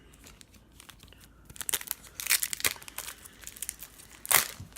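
Trading cards and their packaging being handled: crinkling and rustling with small clicks, in a busy run from about one and a half seconds in, then a short louder rustle near the end.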